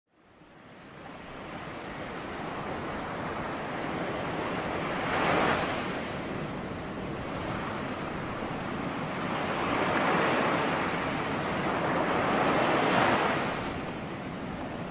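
Ocean waves breaking on a shore, a steady wash of surf with waves cresting louder about five, ten and thirteen seconds in. The sound fades in at the start.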